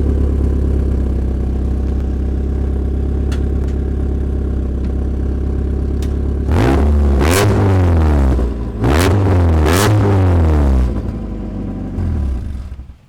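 Mazda Miata's four-cylinder engine idling through a home-made dual exhaust, then revved twice, about six and nine seconds in, falling back to idle each time, and shut off near the end.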